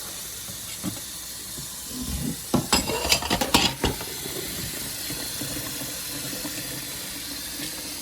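Kitchen tap running cold water over freshly drained fettuccine to cool it and stop it cooking, a steady rush of water. A quick cluster of knocks and clatters comes about two and a half to four seconds in.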